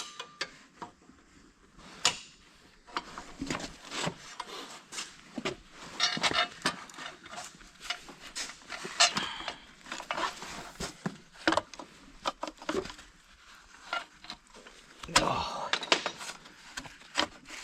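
Irregular clinks, knocks and rubbing of parts and hand tools being handled during machinery reassembly, with a denser burst of scraping and knocking near the end.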